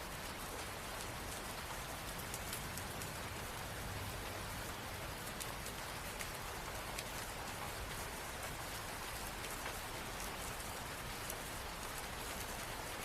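Steady rain falling, with the fine patter of individual drops striking a hard surface over an even hiss.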